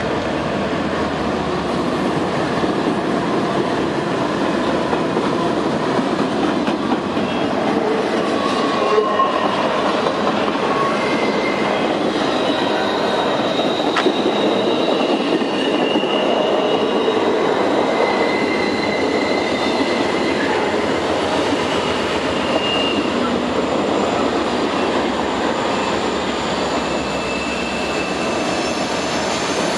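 Freight train rolling past close by, its diesel locomotives giving way to intermodal well cars: steady rumble of steel wheels on rail, with short high-pitched wheel squeals coming and going from about eleven seconds in, and a single sharp click about fourteen seconds in.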